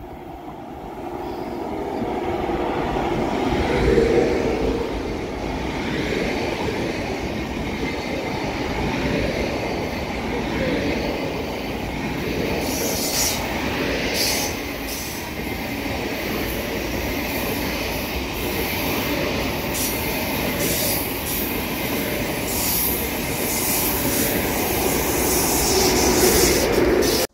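An ICE high-speed electric train rolling past, a long coupled set. The rushing rail noise swells over the first few seconds and then holds steady. From about halfway through, short high-pitched squeals from the wheels come in and out.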